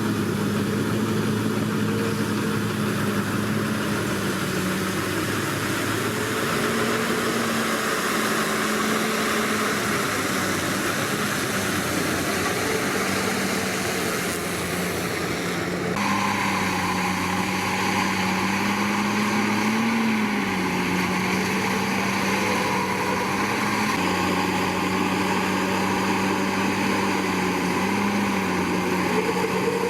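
Komatsu D61PX bulldozer's diesel engine running steadily at work, its pitch rising briefly every few seconds as the load comes and goes. The sound changes abruptly about halfway through.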